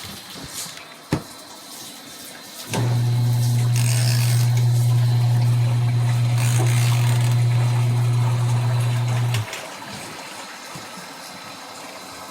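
Auertech twin-tub portable washing machine's electric motor humming at a steady low pitch, switching on abruptly about three seconds in and cutting off about seven seconds later. A single sharp click comes just before.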